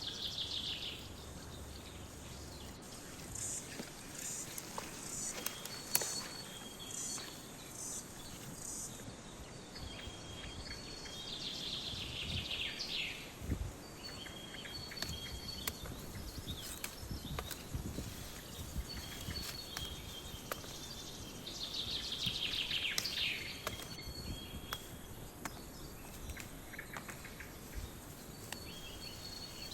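Birdsong over a steady chirring of insects. One bird repeats a descending trilled song about every ten seconds, with short high calls between the songs and a few soft knocks.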